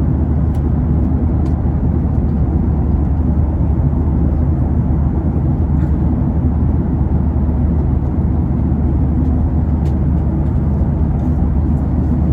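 Steady low drone of an airliner cabin in flight: engine and airflow noise, even throughout.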